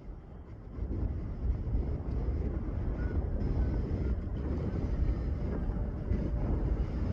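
Low, steady rumble of a jet aircraft's engines, swelling about a second in and then holding, with wind buffeting the microphone.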